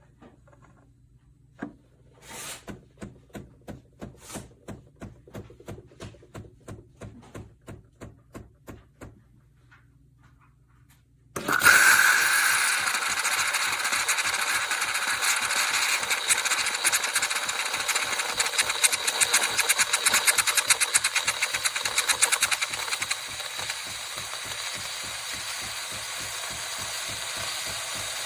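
Philips Series 2300 fully automatic espresso machine working through a cycle: a click, then a run of evenly spaced pulsing strokes, two to three a second, for several seconds. After a short lull a loud, rapidly buzzing mechanical run starts suddenly, easing a little near the end.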